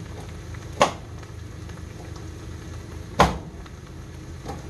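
Sliced potatoes, green pepper and onion frying in a cast iron skillet, a steady sizzle, with two sharp knocks about a second in and about three seconds in.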